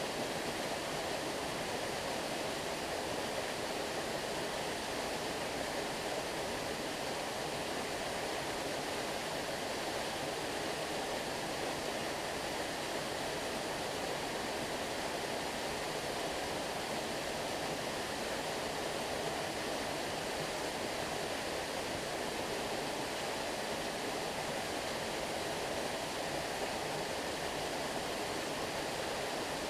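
Stream water flowing and rushing steadily, an even rushing sound with no breaks.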